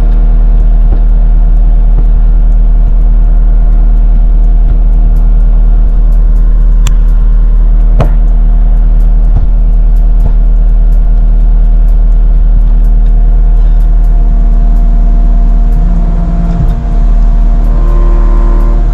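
Caterpillar 259D3 compact track loader's diesel engine running steadily while it works. A couple of sharp clicks come about seven and eight seconds in, and the engine sound dips briefly and shifts near the end.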